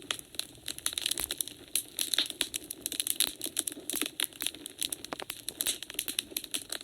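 Wood fire crackling in a fireplace: dense, irregular sharp pops and snaps over a faint low hiss of the burning logs.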